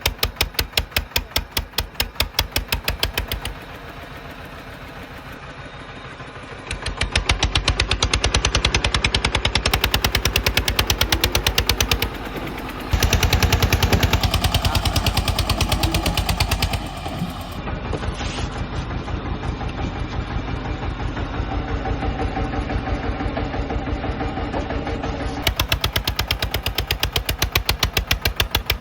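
Tractor diesel engines running with a fast, even chugging beat. The level and tone change abruptly several times, jumping louder about 7 and 13 seconds in and easing a little about 17 seconds in.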